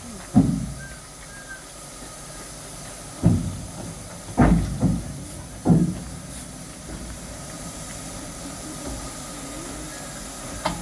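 Mt Lyell No. 3 steam locomotive standing with a steady hiss of steam, broken by several sudden low thumps at uneven intervals.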